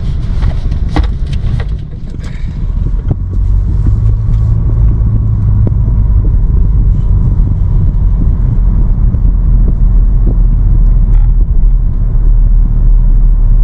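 Steady low rumble of a moving car's engine and tyres heard from inside the cabin, growing louder about three seconds in.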